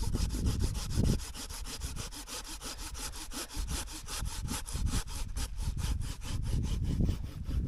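A saw cutting through the wood of a dead, dried-out tree, in quick, even, rhythmic strokes.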